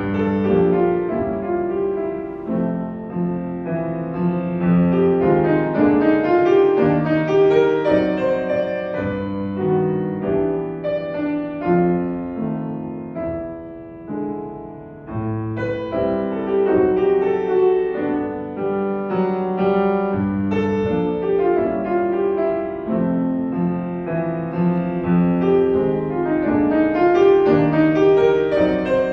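Solo piano playing a jazz-style piece, with a softer passage about halfway through before it picks up again.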